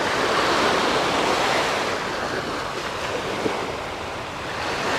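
Small, calm sea waves breaking and washing up the sand at the water's edge, a surge that swells at the start, eases off through the middle and builds again near the end.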